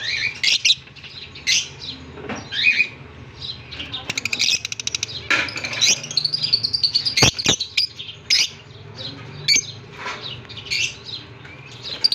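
Budgerigars chattering: many quick high chirps and warbles, with a fast rattling run of chirps about four seconds in and a sharp click midway. A steady low hum runs underneath.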